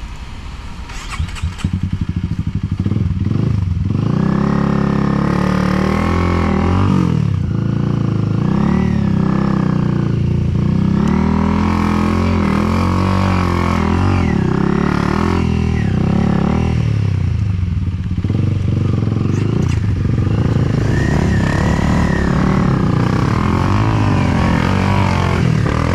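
Enduro dirt bike engine being ridden off-road, its revs rising and falling over and over as the throttle is worked. Quieter for the first couple of seconds, then loud.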